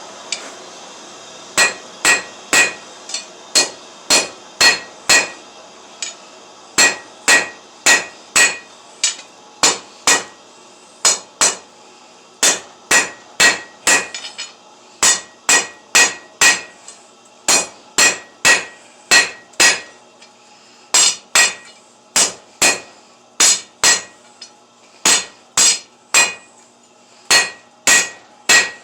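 Hand hammer forging steel on an anvil: runs of steady blows about two a second, each with a bright metallic ring, broken by short pauses, over a steady low hum.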